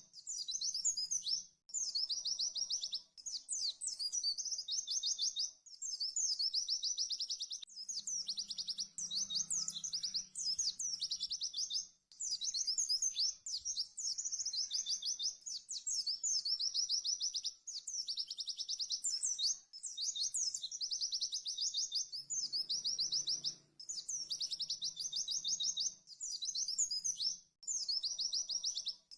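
White-eye (pleci) singing in very fast, rapid-fire high trills, bout after bout every couple of seconds with short abrupt breaks between them: a looped master song recording used to train caged white-eyes.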